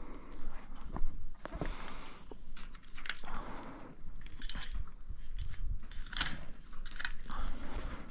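Footsteps with scattered knocks and clicks, over a steady high-pitched tone.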